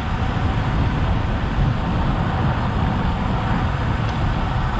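Steady wind rumble on a GoPro's microphone while riding a road bike, with road noise mixed in.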